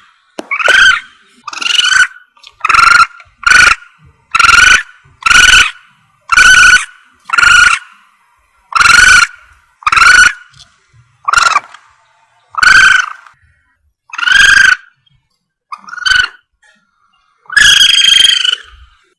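Recorded Asian palm civet (musang) calls used as a hunting lure: a string of loud, short, high-pitched calls, repeated about once a second with uneven pauses.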